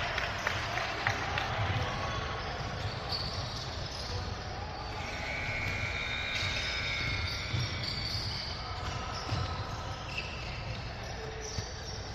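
Basketball dribbling, its bounces thudding on the gym floor, with voices in the gym around it.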